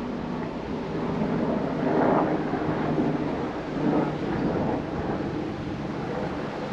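Wind buffeting the microphone, a rumbling noise that swells in gusts about two and four seconds in, over a faint steady low hum.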